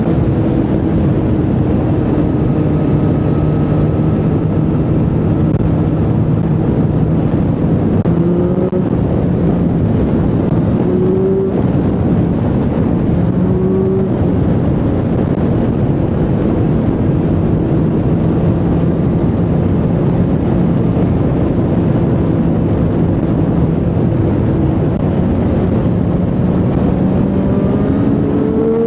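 Triumph Street Triple 765R's inline three-cylinder engine running under way at mostly steady revs. Its pitch rises briefly a few times as the throttle is opened, over a steady rushing noise.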